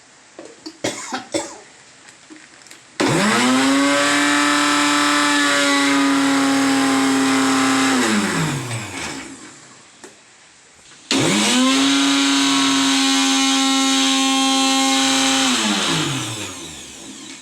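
Electric mixer grinder grinding ginger and garlic paste in two runs of about five seconds each: the motor spins up to a steady high whir, then winds down with a falling pitch once switched off. A few small clicks come before the first run.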